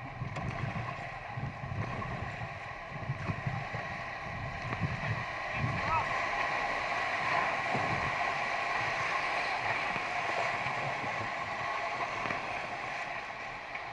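Rushing river water, growing louder about six seconds in, with wind buffeting the microphone.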